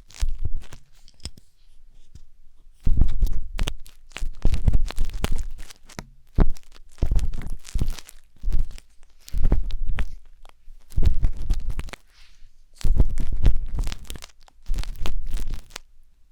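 Wooden skewer scraping and rubbing in the ear of a binaural dummy-head microphone: about ten bursts of crackly scratching with short pauses between, each carrying a deep rumble from contact with the mic.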